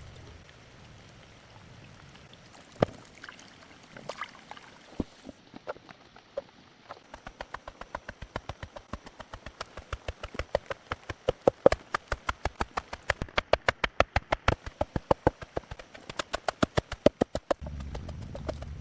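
A few scattered knocks, then a fast, even run of strikes at about five a second that lasts roughly ten seconds and stops near the end.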